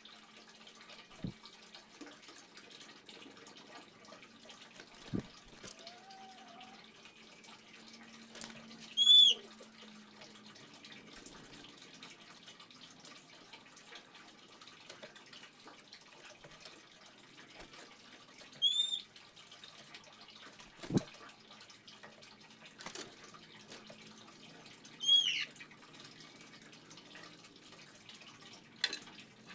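Faint, steady trickling water with a few drips, and a bird giving a short, sharp call four times, each much louder than the water.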